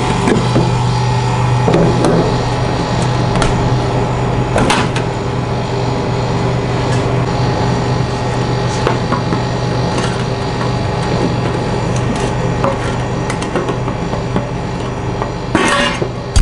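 Street food stall utensils knocking, tapping and scraping on a cooking plate in scattered, irregular strokes, over a steady low machine hum, with a burst of heavier knocks near the end.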